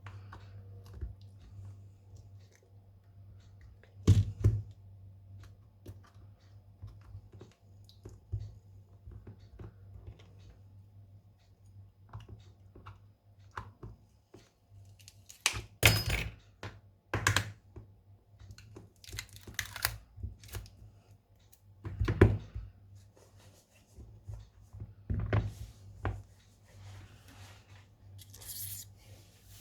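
Hand tools and phone parts handled on a workbench during a smartphone screen repair: light clicks and taps with about half a dozen sharp knocks, over a steady low hum. A short high scraping hiss comes near the end.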